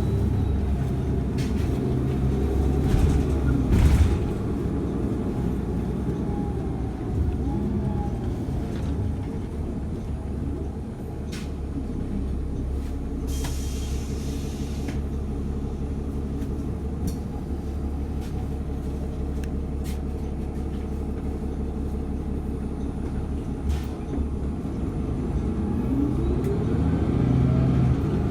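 Steady low rumble of a moving city bus heard from inside, with scattered rattles and clicks. About halfway through there is a short burst of air hiss, and near the end a rising whine as the bus speeds up.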